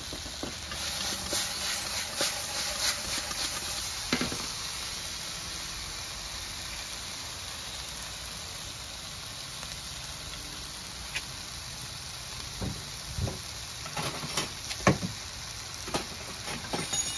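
Sliced opo squash sizzling as it is stir-fried in a coated frying pan, with a spatula scraping and knocking against the pan in spells near the start and again over the last few seconds.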